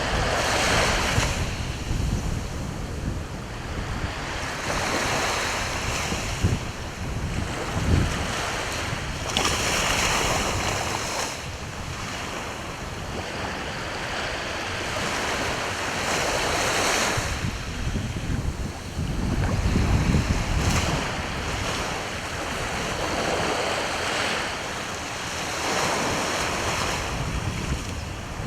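Sea waves washing onto the shore, the surf swelling and falling back every few seconds. Wind buffets the microphone with a low rumble.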